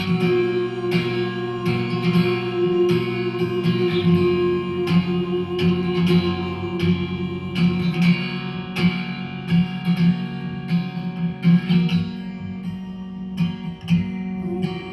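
Guitar playing an instrumental passage of a song, plucked notes ringing over steady low chords, without singing.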